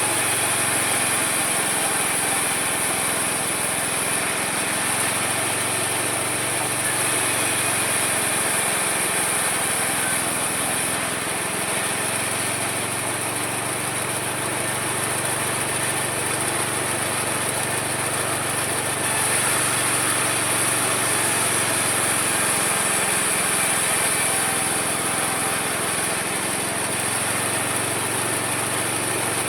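Homemade mini sawmill running steadily as it saws wood, with a constant high whine over the machine noise. It grows slightly louder about two-thirds of the way through.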